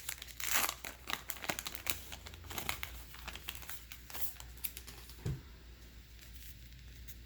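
A trading card pack's wrapper crinkling and being torn open, with dense crackling clicks as the cards are handled, dying down after about five seconds.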